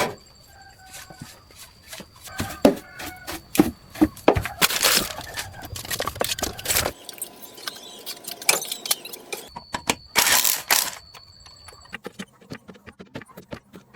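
A rapid, irregular string of knocks and clanks, with loud bursts of hissing noise about five seconds in and again about ten seconds in.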